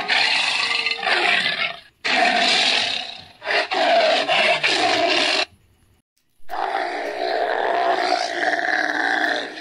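A large animal giving four long, loud roaring calls with short pauses between them.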